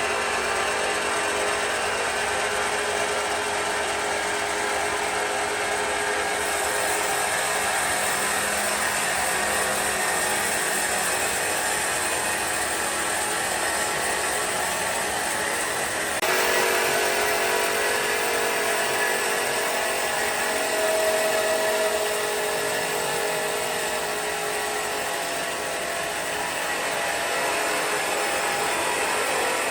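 Woodworking power tools running steadily in a workshop, a dense mechanical noise with faint held tones that changes abruptly about six and sixteen seconds in.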